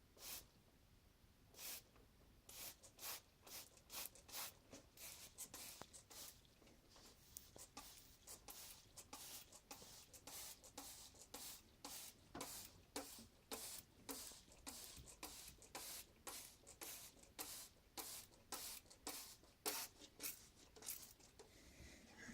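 Faint, irregular scratching and rustling strokes, a few a second, growing busier after the first few seconds.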